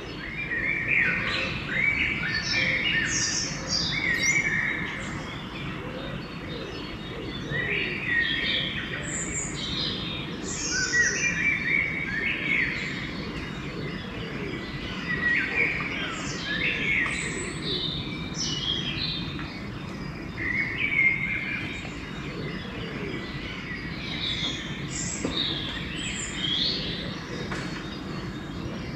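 Songbirds singing in a pre-dawn chorus: short, varied chirping phrases from several birds overlap and come in clusters, over a steady low background noise.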